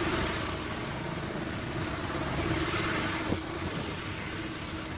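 An engine running steadily at idle, a constant low rumble with a held hum. A faint knock comes about three seconds in.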